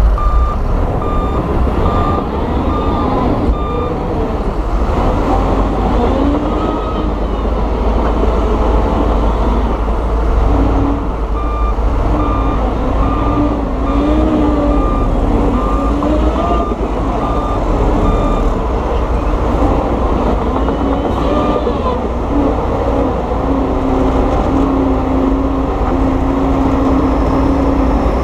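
Heavy diesel earthmoving machines (bulldozers and dump trucks) running, their engine pitch rising and falling as they work. A reversing alarm beeps about twice a second at the start, again for several seconds in the middle, and briefly at the very end.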